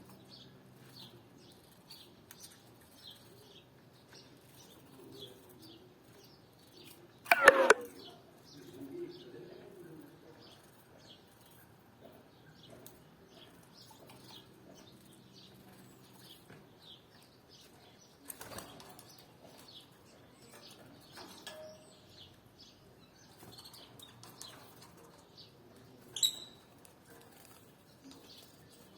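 Caged canaries chirping, a steady patter of short, high, faint chirps. About seven seconds in comes one loud, sudden burst lasting about half a second, with smaller sharp sounds near the middle and near the end.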